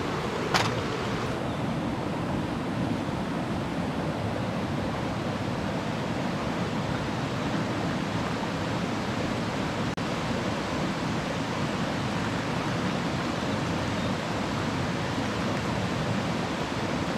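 Mountain stream rushing steadily over rocks, with a single sharp click about half a second in.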